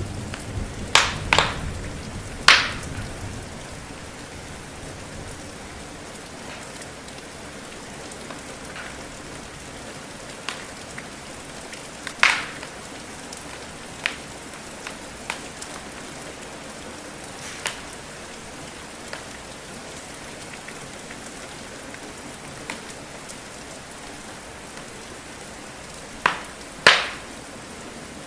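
Steady rain with a wood fire crackling over it: sharp single pops every few seconds, in small clusters about a second, twelve seconds and twenty-six seconds in. A low rumble dies away over the first few seconds.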